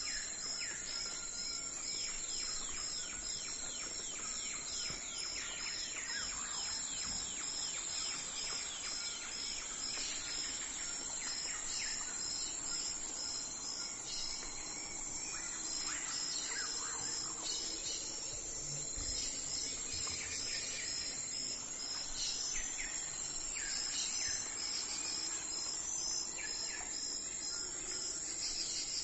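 Early-morning outdoor ambience: birds calling with many short, falling notes over a steady, high-pitched insect trill and a regular chirping pulse.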